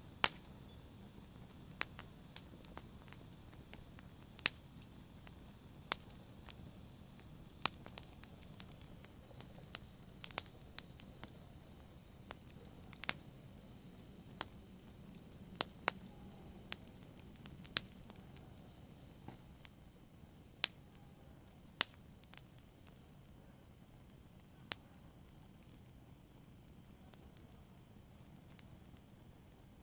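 Wood fire in a fireplace crackling: sharp, irregular pops and snaps over a soft steady hiss, with fewer pops in the last few seconds.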